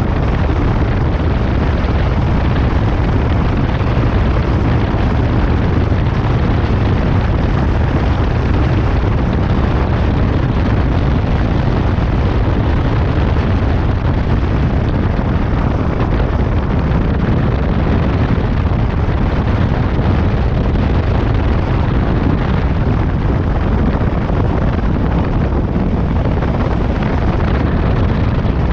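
Wind buffeting the microphone of a moving motorcycle: a loud, steady low rumble.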